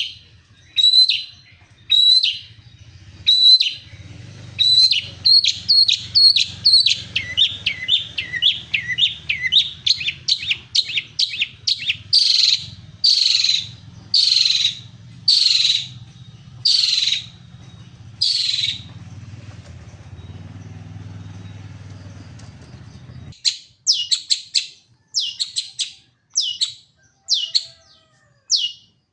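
Long-tailed shrike (cendet) in full song: sharp, downward-slurred calls repeated about once a second, then in quicker strings, with a pause of a few seconds before rapid strings resume. A low hum runs underneath for most of the first two-thirds and cuts off suddenly.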